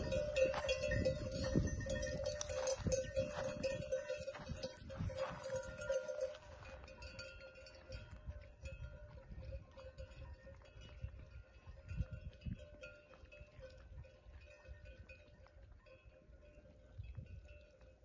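Bells on a grazing flock of sheep clinking and ringing as the animals move. They are busy for the first six seconds or so, then thin out to occasional faint clinks.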